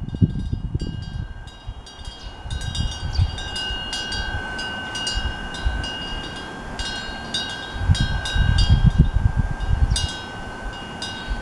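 Korean temple eave wind bell (pungyeong) ringing in the wind, its clapper striking irregularly many times over a steady, sustained ringing tone. Wind rumbles on the microphone, strongest about eight seconds in.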